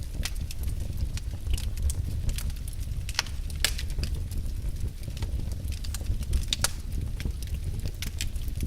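Fire in a fireplace crackling, with frequent irregular pops and snaps over a steady low rumble.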